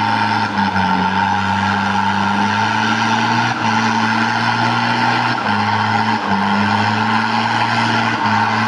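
A 4x4's engine running steadily under way off-road, its pitch dropping and rising a little several times as the throttle changes.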